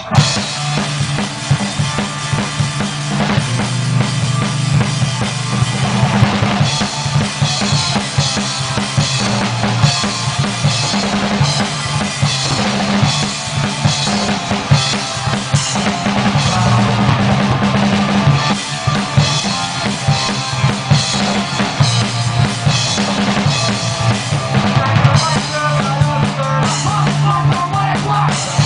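Amateur rock band playing live with no singing: drum kit with bass drum and snare driving along over bass and electric guitar. The full band comes in at the start after a guitar-only lead-in.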